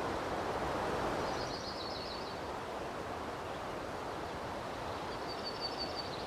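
Steady outdoor rustle and hiss, with a small bird twittering in a quick run of high chirps twice, about a second in and again near the end.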